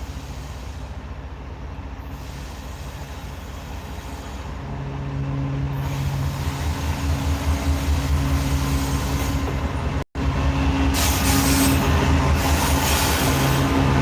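Norfolk Southern diesel freight locomotives approaching. A steady engine drone grows louder from about four seconds in, the sound drops out for an instant about ten seconds in, and a high rail and wheel hiss joins in near the end.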